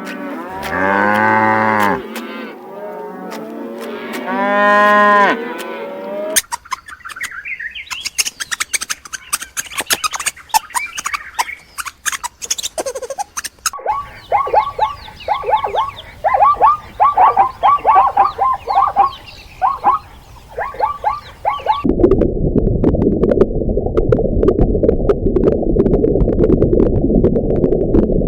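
Farm animal calls one after another: cattle mooing in two long calls at the start, then a run of many short, quick calls from other animals, and a loud steady rushing noise low in pitch from about three-quarters of the way in.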